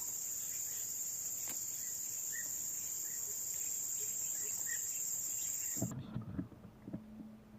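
Steady high-pitched chorus of insects with faint short chirps over it, cutting off abruptly about six seconds in; a few soft knocks follow.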